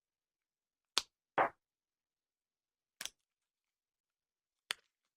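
Four brief taps and clicks of board game cards being handled and set down, about one second, a second and a half, three seconds and nearly five seconds in.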